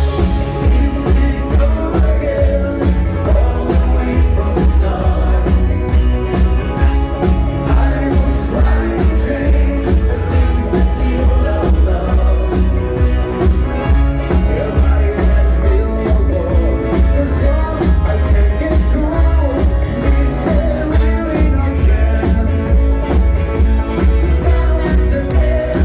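Live band music with a heavy, steady bass, from a country/bluegrass-style band playing a rock ballad cover at full volume.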